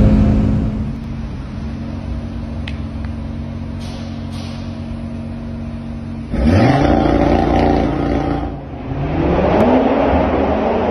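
Audi RS3 8V sedan's turbocharged 2.5-litre five-cylinder running at a steady low note, then about six seconds in accelerating hard with its pitch climbing. The pitch and level dip briefly at a gear change and climb again near the end.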